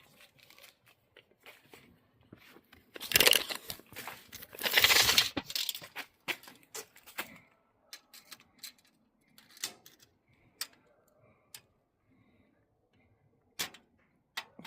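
Metal parts being handled, clattering and scraping: two loud rattling bursts about three and five seconds in, then scattered light clicks and knocks.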